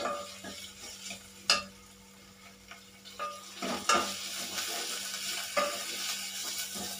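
A metal spoon stirs and knocks against a metal pot on a gas stove while onions and ginger-garlic paste fry in oil, sizzling. There is a sharp knock about a second and a half in, and the sizzle grows stronger from about halfway. The paste is being fried until its raw smell is gone.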